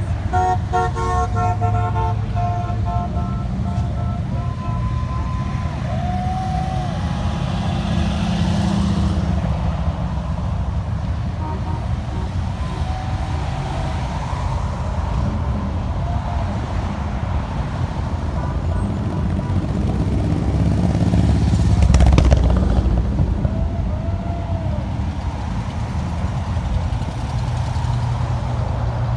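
Street traffic rumbling past steadily, with car horns tooting, longest in the first few seconds. A vehicle passes louder about two-thirds of the way through.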